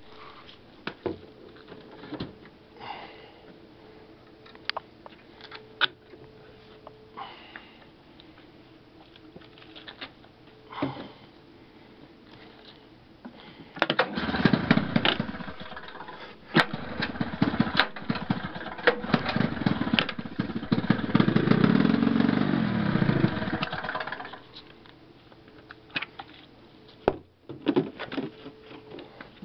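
Two-stroke engine of a 1973 Arctic Cat Panther 440 snowmobile starting suddenly about halfway through, running and revving up and down for about ten seconds, then dropping off. Before it come faint scattered clicks and knocks.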